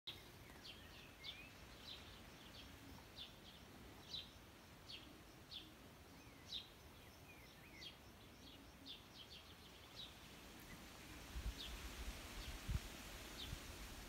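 Birds giving short, high chirps, one or two a second, over a faint outdoor hiss. A low rumble joins in over the last few seconds.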